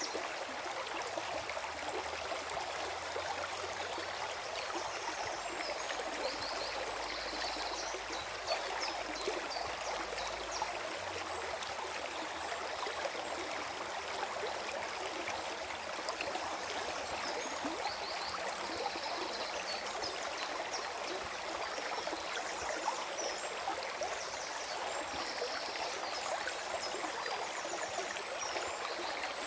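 Forest stream flowing and gurgling in a steady rush, with a few brief high chirps now and then.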